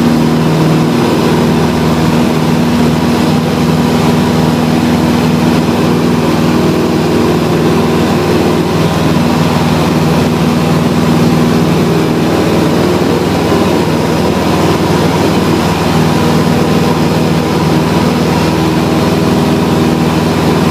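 A light aircraft's engine and propeller running steadily at high power, with a constant pitch and level.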